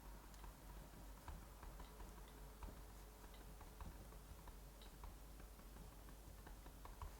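Faint crackling of a wood fire: small irregular pops and ticks, a few each second, over a soft steady hiss of rain.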